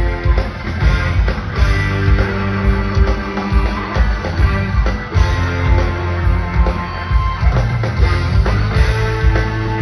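Live rock band playing an instrumental jam: electric guitars holding long notes over bass and a steady drum beat, recorded from the audience.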